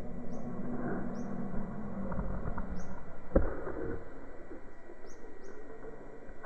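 Short, high, slightly falling bird chirps, about five spaced irregularly, over a steady low background noise, with one sharp knock about halfway through.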